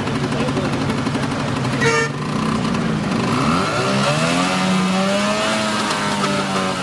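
Vehicle engine running under load, revving so its pitch climbs from about two seconds in and then holds steady. A brief, sharp, pitched sound comes just before the rise.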